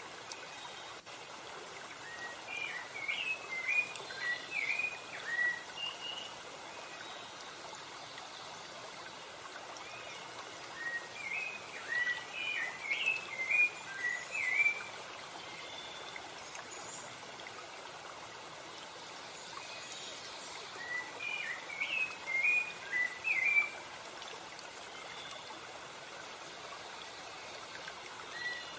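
Steady rushing of a stream or waterfall, with a songbird singing a phrase of quick chirping notes three times, about every nine seconds.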